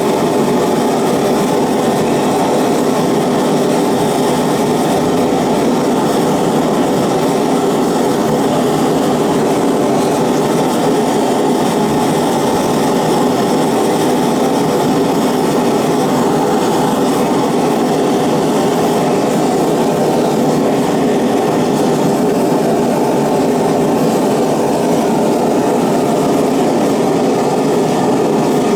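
Propane burner of a single-burner Devil's Forge gas forge running steadily during the final firing of its fresh Satanite lining, as the forge is brought up to forge temperature.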